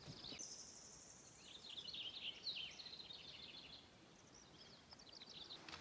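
Faint songbird calls: a high thin trill, then a quick run of chirping notes, and a few more short notes near the end.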